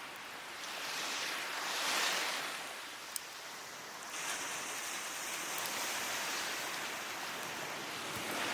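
Waves washing up the beach: one swell rises and falls about two seconds in, then a steady wash. A wood fire crackles alongside, with one sharp pop about three seconds in.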